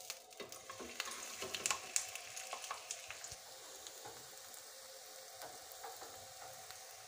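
A vegetable-batter pancake frying in a little oil on a tawa, just flipped, with a steady sizzle. A few sharp clicks and scrapes from the metal spatula against the pan come in the first two seconds.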